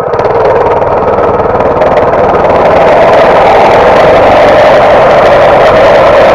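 Baja Warrior MB200 mini bike's small single-cylinder engine running, growing louder and slightly higher in pitch over the first few seconds, then holding steady.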